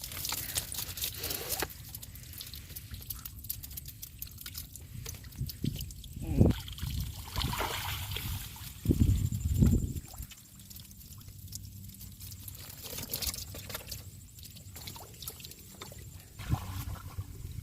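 Shallow water sloshing and trickling, with louder splashes about six and nine seconds in, as water runs off bamboo shrimp traps being lifted from the water.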